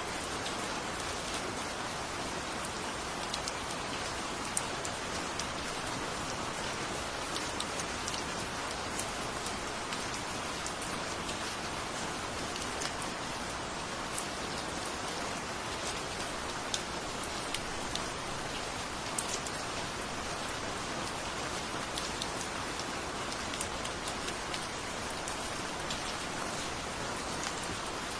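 Steady rain falling, an even hiss with the scattered sharper taps of individual drops striking a surface.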